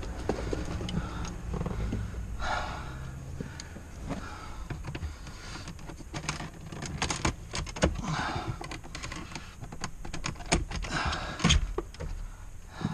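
Plastic dashboard trim being worked loose by hand: an uneven string of sharp clicks and knocks with a few short scraping rubs, the loudest knocks near the end.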